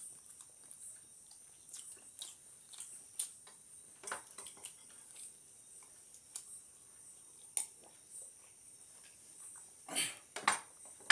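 Close-miked eating sounds of people chewing biryani by hand: scattered wet mouth smacks and small clicks, with a few louder smacks about ten seconds in.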